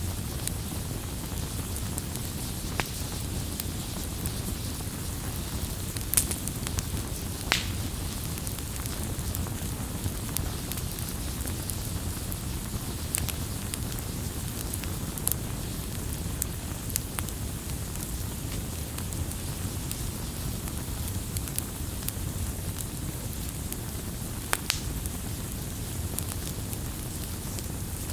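Wood fire burning with a steady low rumble and scattered crackles, with a few sharper pops now and then.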